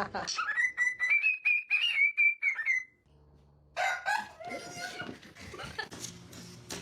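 A parrot's long whistled call that rises and then holds for about three seconds before stopping, followed after a short pause by other sounds and music.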